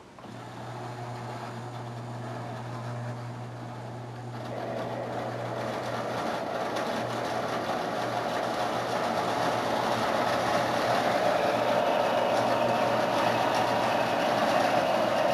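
O-gauge model train, two diesel locomotives hauling a long string of loaded freight cars on three-rail track: a steady electric hum, then about four seconds in the rumble and clatter of wheels on the track sets in and grows louder as the train gets going. The diesels are under heavy strain on the climb.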